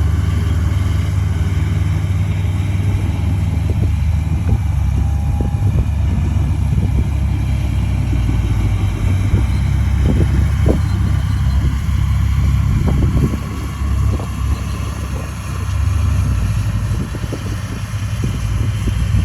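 A heavy diesel earthmoving machine's engine running steadily, with repeated clanks and knocks from about four seconds in. The engine level dips briefly twice in the second half.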